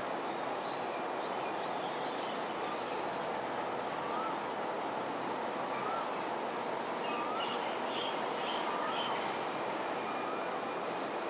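Steady rushing background noise with a bird's short rising note repeated roughly every second or so from about four seconds in, and a few brief higher chirps midway.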